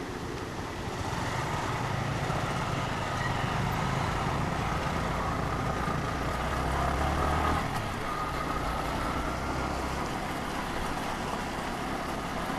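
Motorcycle running at road speed, with the engine's low drone under steady road and wind noise. The noise swells from about a second in and drops back about seven and a half seconds in.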